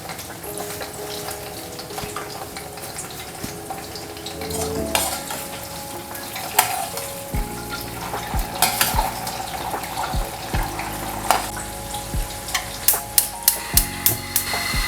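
Food sizzling in a hot pan while a metal spatula stirs and scrapes it, with sharp knocks of utensil on pan. Near the end there is a quick run of taps.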